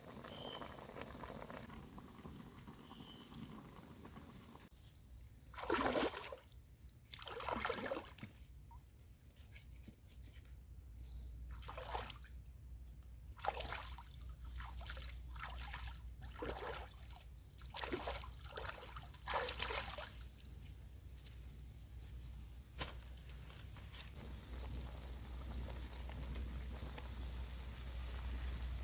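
Water sloshing and pouring in a series of short, separate splashes with trickling between them.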